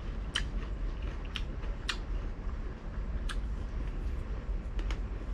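Close-miked chewing of fried pork belly (pinakupsan), with a scattering of short sharp crunches and mouth clicks, about seven in all. A steady low hum runs underneath.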